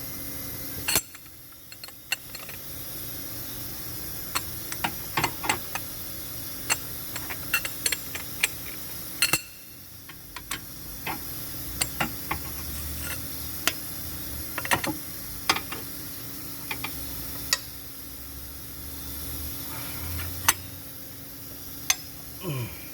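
Scattered sharp metallic clicks and taps of hand tools and engine parts being handled, irregular and unrhythmic, over a steady background hiss.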